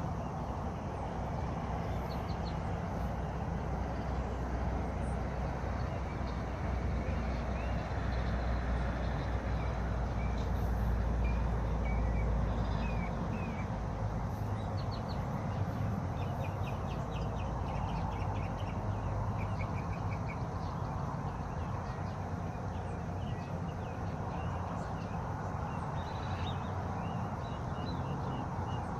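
Songbirds chirping and trilling, with many short high calls and a rapid run of notes in the middle, over a steady rushing background and a low rumble that fades about halfway through.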